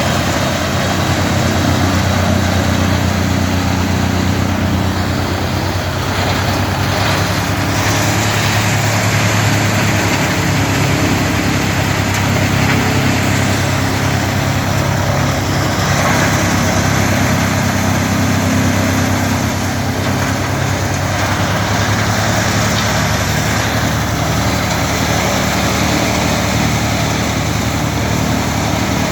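Engine-driven wood chipper running steadily: a low, even engine hum with a rushing noise above it that grows brighter a few times.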